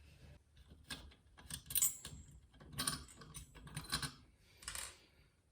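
Small metal parts and tools clicking and clinking as a model jet turbine is taken apart by hand: about five or six separate sharp clicks, one near two seconds in followed by a brief high metallic ring.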